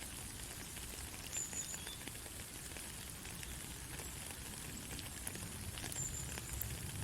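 Steady light rain falling, an even hiss with scattered individual drops tapping.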